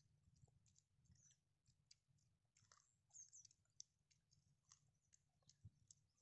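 Very faint chewing and biting on roasted corn on the cob, heard as scattered small clicks and smacks over a low hum.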